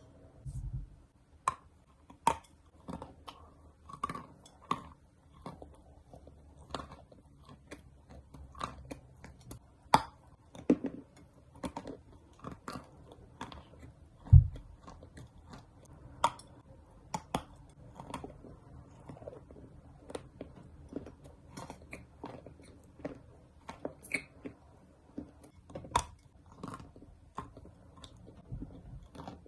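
Someone biting and chewing dry edible clay: irregular sharp crunches and crackles, a few much louder than the rest, with a dull low thump about fourteen seconds in.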